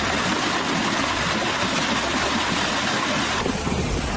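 Steady rushing noise of a heavy rainstorm over a low rumble; the hiss thins out about three and a half seconds in.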